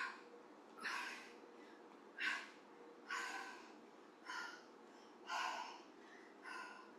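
A woman breathing hard in a steady rhythm under exertion from weighted squats and overhead presses: seven quick, forceful breaths, one a little more than every second.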